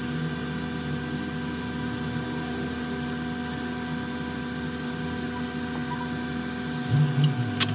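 Steady electrical hum with several constant tones over a hiss, and a sharp click near the end.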